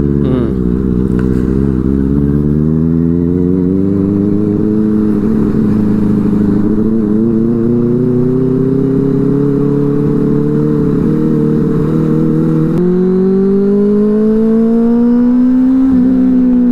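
Benelli 600i inline-four engine with an aftermarket IXIL exhaust, riding on the road: the engine note climbs slowly through a gear, drops sharply at an upshift about 13 seconds in, climbs again, then falls off as the throttle closes near the end.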